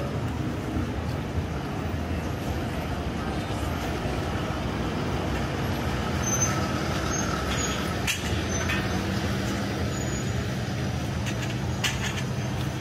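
Street traffic, with a vehicle engine running steadily under it and a couple of short clicks about 8 and 12 seconds in.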